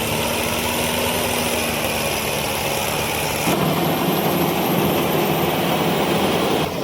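Combine harvester engine and machinery running steadily. The sound changes abruptly about three and a half seconds in and again near the end.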